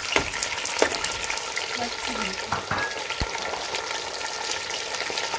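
Chicken pieces sizzling in hot oil in a pot while being stirred with a plastic spoon, which knocks against the pot a few times in the first few seconds.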